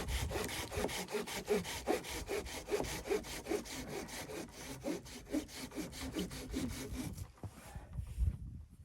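Wood being sawn by hand with quick, even back-and-forth strokes, which stop about seven seconds in; a single low thump follows near the end.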